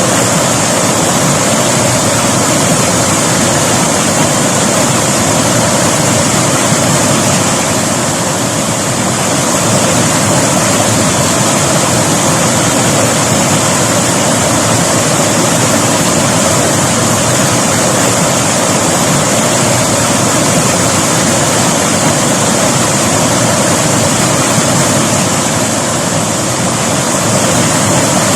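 River water flowing steadily over rocks, a continuous rushing noise.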